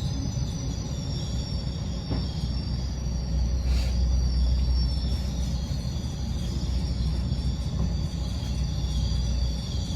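Inside a GO Transit bilevel coach: steady low rumble of the train running on the rails, with a faint high wavering whine over it. A brief hiss about four seconds in.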